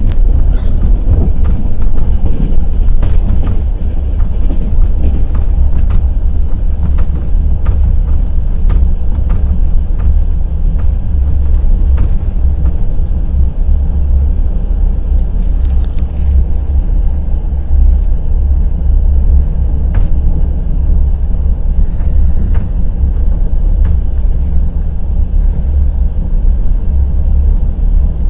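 Passenger train running at speed: a steady low rumble with the wheels clattering in irregular knocks over the rail joints.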